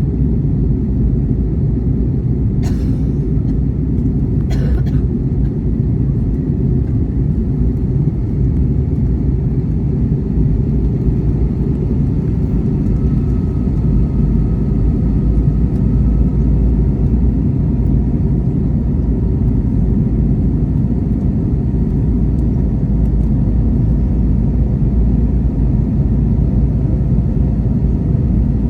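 Passenger airliner during its landing approach: a loud, steady low rumble of engines and airflow. Two short clicks come a few seconds in.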